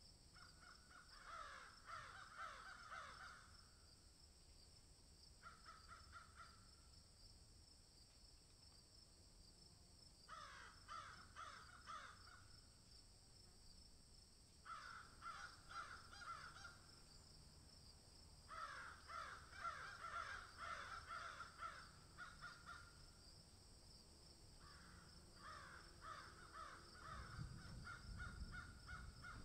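Faint bird calls in six bouts of rapid repeated notes, each bout lasting a few seconds, over a steady high-pitched hum.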